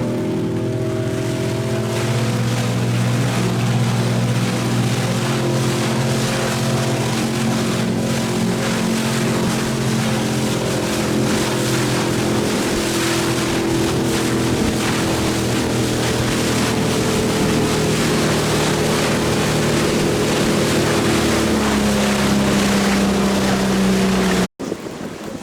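Motorboat engine running at a steady speed, with wind and water noise; it cuts off suddenly near the end.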